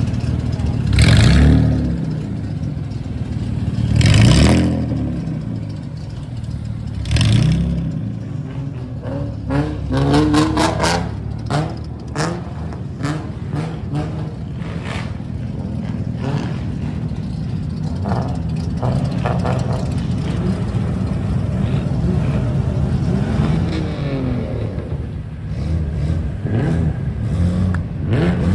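Modified car engines being revved hard through loud exhausts: three big revs in the first seven seconds, then a quick run of short throttle blips, then engines idling and revving with the pitch rising and falling.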